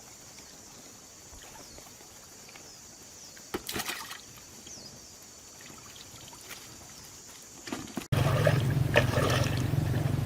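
Light water sounds, trickling and a brief splash about three and a half seconds in, over a steady high hiss. About eight seconds in the sound cuts abruptly to a much louder steady low rumble with water noise.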